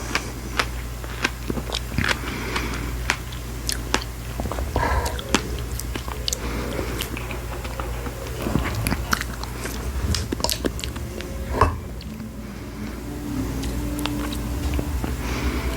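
Close-miked chewing and biting of fresh strawberries: irregular wet, crunchy bites and mouth clicks, with a sharper click about three-quarters of the way through, over a steady low hum. Faint sustained musical tones come in near the end.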